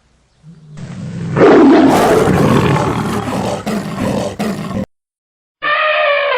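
A loud, rough animal roar lasting about four seconds, swelling in the first second and then cutting off abruptly. After a brief silence, a steady sound of several held tones begins near the end.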